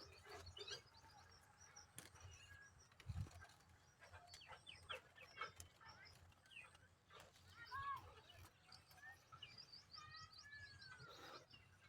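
Faint, scattered chirps and short arched whistles of several birds calling. A low thump about three seconds in is the loudest moment.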